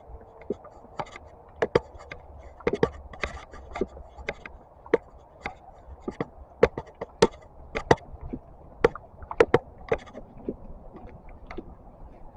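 A run of sharp, irregular knocks and clicks, one to three a second, over a faint low rumble.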